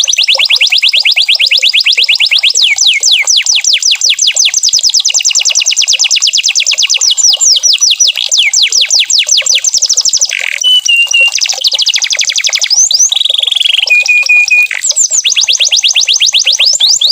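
Domestic canary singing: long, loud runs of fast trills made of rapid repeated falling notes, with a few short held whistles past the middle of the song.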